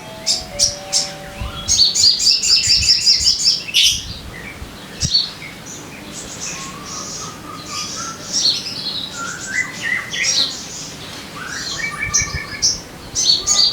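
Sogon bird calling: a few low whistled notes, then a loud rapid chattering trill about two seconds in, followed by varied chirps and short whistled phrases.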